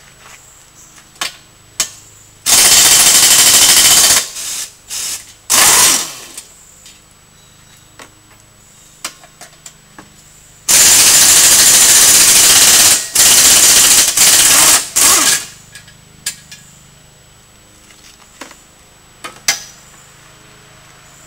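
Power impact wrench hammering in bursts as it loosens the ATV exhaust's two mounting bolts. There are two rounds, each a long burst followed by shorter ones, with a falling spin-down after a short burst about six seconds in and light clicks between.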